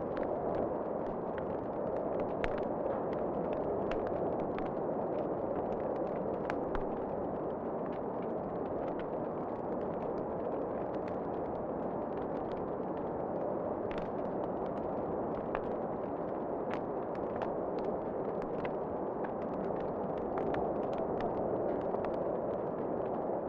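Wood fire crackling in a fireplace, with frequent sharp pops and snaps scattered over a steady rushing noise.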